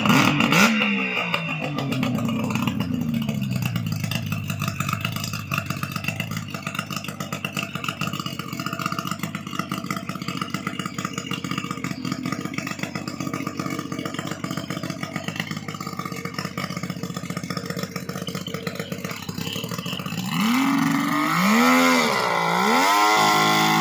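40 hp outboard motor running under way. Its pitch falls in the first few seconds as it throttles back, it holds steady for a long stretch, and near the end it revs up and down several times.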